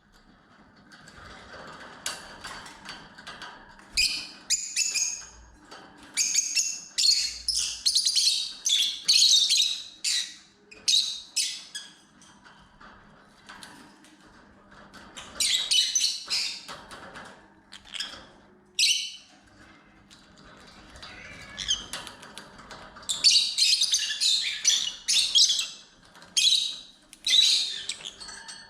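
Lovebirds chirping and squawking in shrill, high bursts. The calls come in several clusters with short quieter pauses between them.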